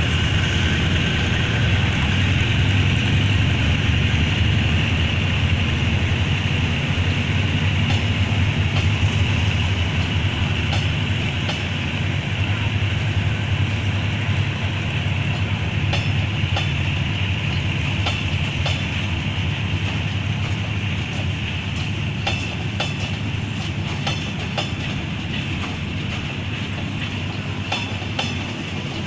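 A train running through the station: a steady low rumble that slowly fades, with wheels clicking over rail joints from about a third of the way in, the clicks coming thicker near the end.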